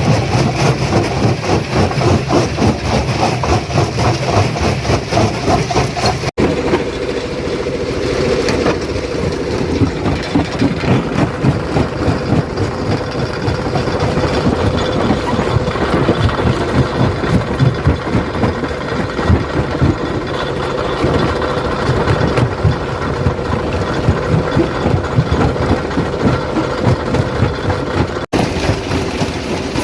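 Stone crusher crushing rock: a continuous dense clatter of stone breaking and grinding over a running machine. About six seconds in there is a sudden break, after which a steady hum runs under the crushing. A second brief break comes near the end.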